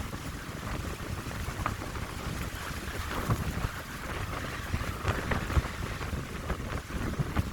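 Wind blowing through a pine grove, a steady hiss with many small crackling ticks, while gusts buffet the microphone with an uneven low rumble.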